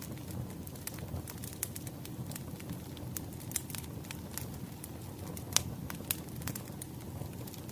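Wood fire crackling, many irregular snaps and pops over a low steady rumble of burning logs, with one sharp loud pop about five and a half seconds in.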